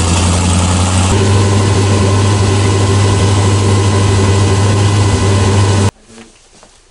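A 600-plus-horsepower 1976 Camaro engine running loud and steady, freshly started for the first time; its tone changes about a second in. The sound cuts off suddenly near the end.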